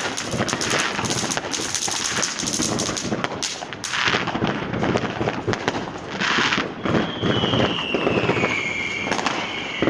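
Street fireworks on New Year's Eve: a continuous barrage of firecracker bangs and crackling, with rushes of hiss about four and six seconds in. In the last three seconds a long high whistle slowly falls in pitch over the bangs.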